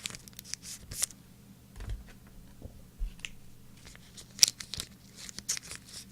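Trading card packs and cards being handled at close range: irregular rustling, crinkling and flicking of wrappers and card stock, with one sharper crack about four and a half seconds in.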